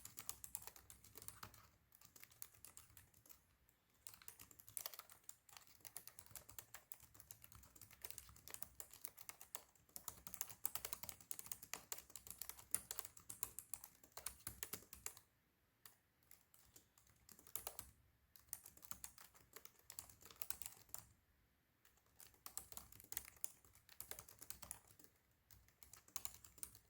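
Fast typing on a Razer laptop keyboard: rapid runs of light key clicks, broken by a few short pauses.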